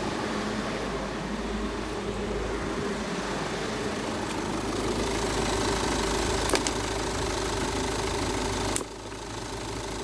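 Car engine idling steadily, recorded before the engine is cleaned. There is a short click about six and a half seconds in, and near the end the sound suddenly becomes quieter and duller.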